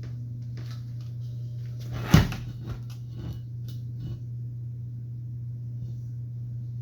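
A sharp knock about two seconds in and a few lighter clicks as chop saw parts are handled and pressed together, over a steady low electrical hum.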